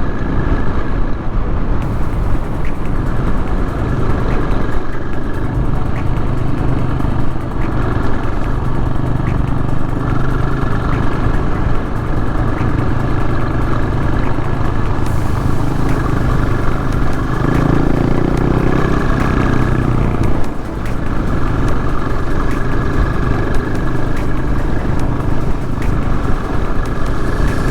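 Adventure motorcycle under way, its engine running steadily under the noise of the ride. The engine note strengthens for a few seconds about two-thirds of the way through, then dips briefly.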